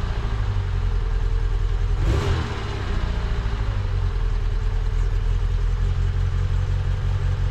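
Fiat Punto Mk1 engine idling on a cold start, with a short rev about two seconds in before it settles back to idle. It is running more evenly now that the HT leads, which had been fitted round the wrong way, are in the right order.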